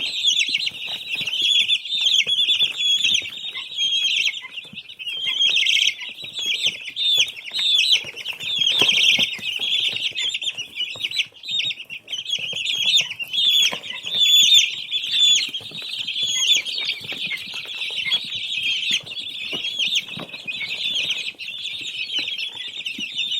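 A brood of baby chicks peeping together: many short, high chirps overlapping in a steady, unbroken chorus.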